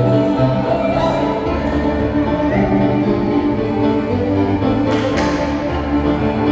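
Live reel music played for Scottish country dancing: a fiddle carries the tune over a steady, bouncing bass line.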